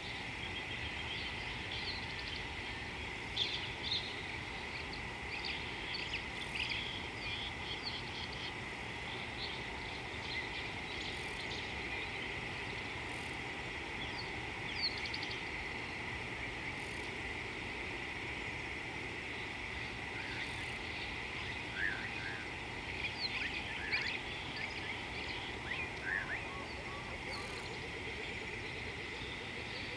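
Wild birds calling in short, scattered chirps over a steady outdoor background hiss and a constant high tone. The chirps bunch in the first several seconds and again about three-quarters of the way through.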